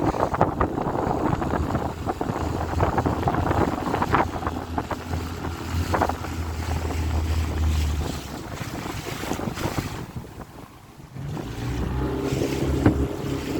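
Small hire motorboat's engine running with wind buffeting the microphone and water splashing at the hull. The engine's steady hum comes through more clearly near the end, after a brief lull in the wind noise.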